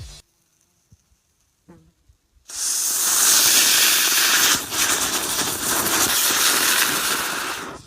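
Ground bloom flower firework spraying sparks with a loud, steady hiss. It starts about two and a half seconds in, after a near-silent stretch, and cuts off shortly before the end.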